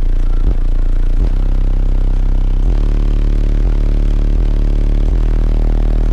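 Very loud bass-heavy music from a truck's car audio system, with its subwoofers playing deep bass notes that change every second or so.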